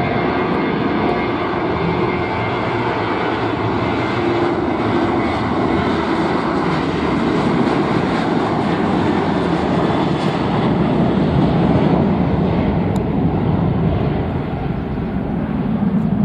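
Boeing 737 jet engines at takeoff thrust: a loud, steady roar with a high whine that fades in the last few seconds while a deep rumble grows.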